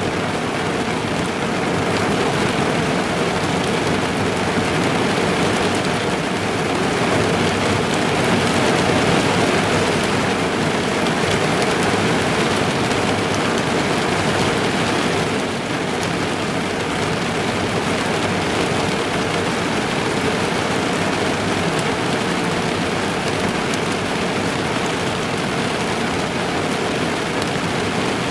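Heavy rain drumming steadily on a car's roof and windows, heard from inside the car.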